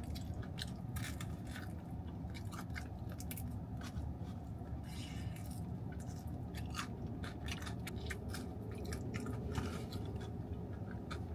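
Close-up chewing and biting of fried chicken: many short wet mouth clicks and crunches, with a low steady hum underneath.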